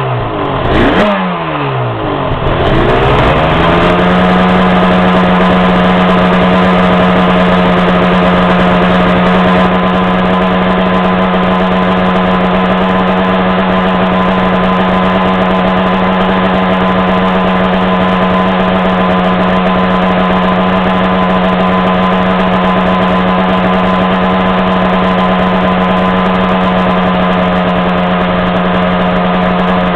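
Yamaha RZ350R two-stroke parallel-twin engine being revved: two quick blips of the throttle, then held at a steady high speed. The owner wonders whether the carburetion is running a bit rich overall.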